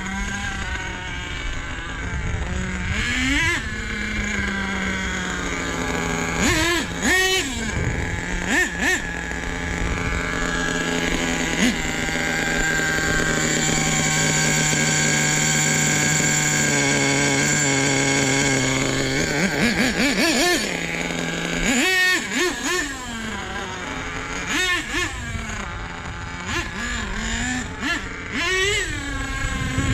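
Nitro RC truck's small glow engine running hard: the pitch swoops up and down as the truck makes passes, then holds a long steady high pitch near the middle. The engine is running lean on the top end, too little fuel on the high-speed needle.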